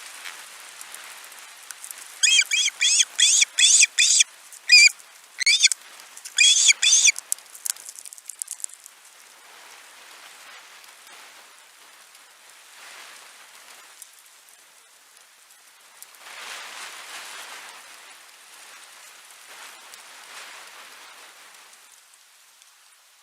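A bird gives a series of about a dozen sharp, high calls in quick succession for a few seconds, over a steady patter of rain.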